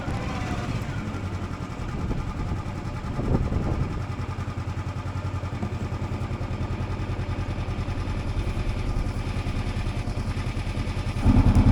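Motorcycle engine idling steadily with an even low pulse, swelling briefly about three seconds in and getting louder just before the end.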